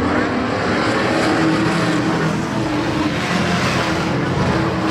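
Several race trucks' engines running together, a steady mix of engine notes.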